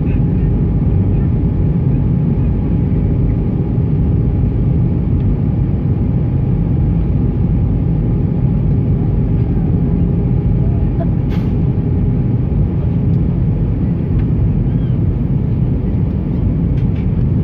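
Steady cabin noise inside a British Airways Airbus A320: an even low rumble of engines and airflow with a faint constant hum. There is a single brief click about eleven seconds in.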